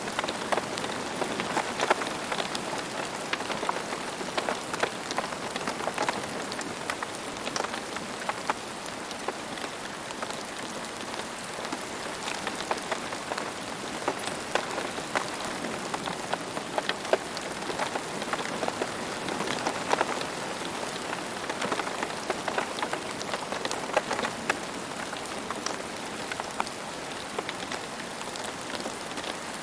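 Steady rain falling on a hard surface, a continuous hiss with many individual drops splattering and ticking throughout.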